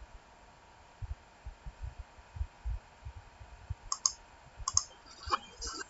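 Soft low thumps for the first few seconds, then a quick run of sharp clicks near the end, like small objects being handled and clicked on a desk.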